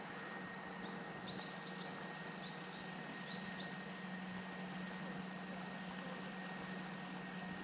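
A small bird giving a quick run of short, high, upward-sweeping chirps from about a second in until near the middle, over a steady low hum and background hiss.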